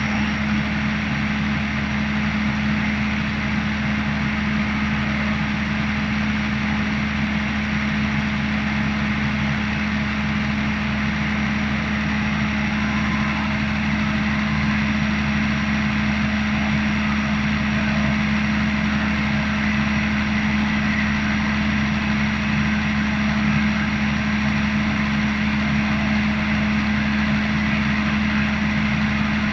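320 kW diesel generator set with a Shanghai diesel engine running at a constant speed: a loud, unchanging hum with a strong low tone and a faint high whine above it.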